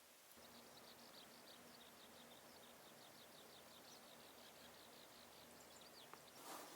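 Faint bird song: a long trill of short, high, falling notes repeated about five times a second, over a faint outdoor background, with a brief rustle near the end.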